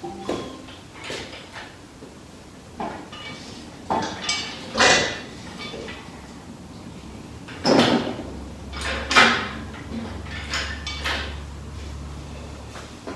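Workshop clatter: a string of separate knocks and clanks of tools and metal parts being picked up and set down, with a low hum joining in about two-thirds of the way through.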